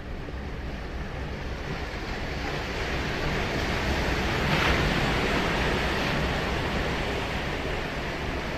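Ocean surf: a wave breaking and washing up the beach, the rush building to a peak about halfway through and then easing off, with some wind on the microphone.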